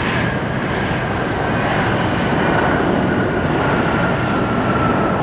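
Jet airliner engines running loud and steady, with a high whine that slowly falls in pitch.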